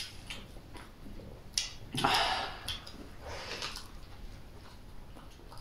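Eating noises: biting and chewing a rolled soybean pancake with raw scallions, with a short crunchy burst about two seconds in and another a little past three seconds, plus small mouth clicks.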